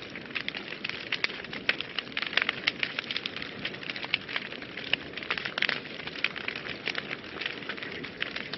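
Fire burning in a fireplace, crackling: a steady hiss with many sharp pops and snaps, several a second at irregular intervals.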